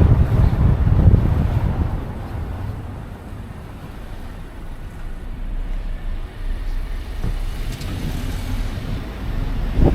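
Street ambience: a low rumble of road traffic mixed with wind buffeting the microphone, heaviest in the first couple of seconds and then settling, with a short sharp knock near the end.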